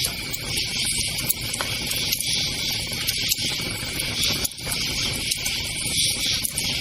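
A campfire crackling, with a few sharp pops, under steady high-pitched insect chirring.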